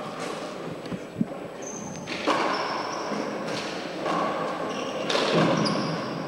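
Four-wall handball rally: a few sharp thuds of the ball striking the court about a second in, then short high squeaks of shoes on the court floor over a steady wash of noise in the hall.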